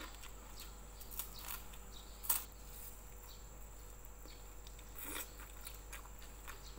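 Close-miked eating sounds: quiet chewing with scattered small crunches and mouth clicks, including a sharper click about two seconds in and a few more near the end.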